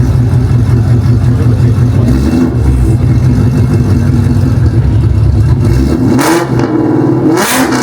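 Loud car engine and exhaust running close by, with revving toward the end and two short sharp bursts near the end.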